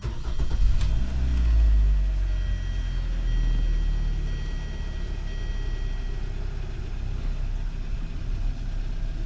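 Hyundai Sonata engine cranking into life and settling to a steady idle, with a brief rev flare in the first couple of seconds. No knock is heard from the steering column: the newly fitted steering assist coupling has cured it.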